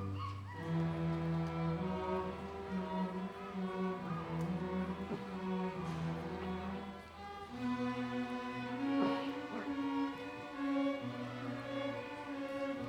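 Music for bowed strings, violin and cello: slow, held notes in several parts that move together over a sustained low note.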